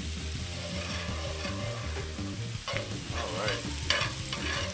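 Seasoned raw shrimp sizzling as they hit a hot cast iron skillet, a steady frying hiss. In the second half, metal tongs clack and scrape against the pan as the shrimp are turned, with the loudest clack near the end.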